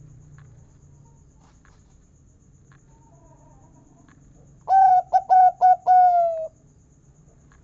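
Zebra dove (local perkutut) cooing: one phrase of about four short, clipped notes running straight into a longer held note, beginning a little past halfway through.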